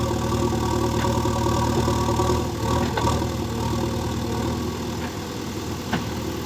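JCB backhoe loader's diesel engine running steadily at a low, even speed, with a few light knocks.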